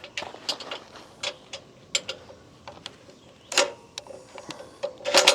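Irregular light metallic clicks and taps of hand tools working nuts and bolts on a sawmill's steel frame, with a louder clank about three and a half seconds in.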